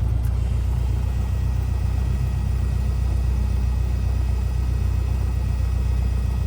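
Cessna 172R's four-cylinder Lycoming engine running at a steady low drone, with no change in pitch or level.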